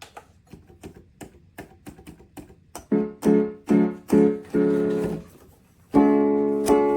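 Donner DDP-60 digital piano being played. Faint quick ticking for the first few seconds, then a run of repeated chords struck about twice a second, and a louder chord held near the end.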